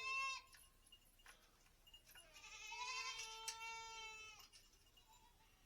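Goat kids bleating for their mothers, who have been kept apart from them overnight. One bleat ends right at the start, then one long bleat comes about two seconds in.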